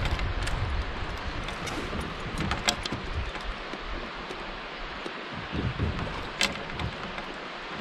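Steady outdoor hiss of wind and moving river water, with a few short sharp clicks and knocks.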